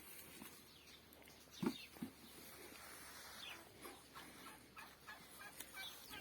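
Birds calling faintly, with two short, louder low calls about one and a half and two seconds in, then scattered short chirps.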